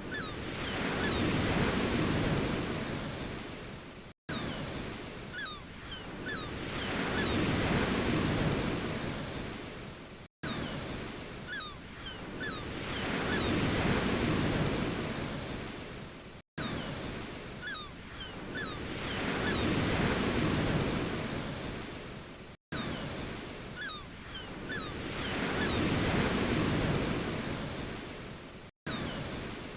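Ocean waves breaking and washing back, each one swelling to a peak and fading, about every six seconds. A short wave recording is looped, so a brief silent dropout falls between the waves.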